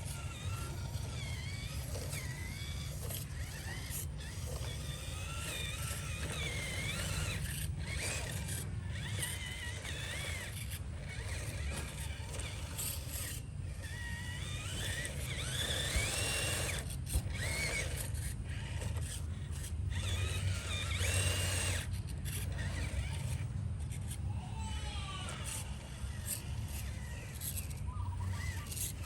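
RC off-road truck's small electric motor and gears whining, the pitch wavering up and down with the throttle, over a steady low rumble with scattered short clicks and knocks.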